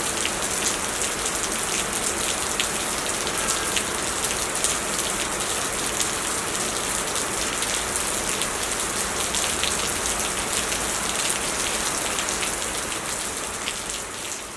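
Heavy rain pouring steadily, a dense hiss full of single drops ticking, fading down near the end.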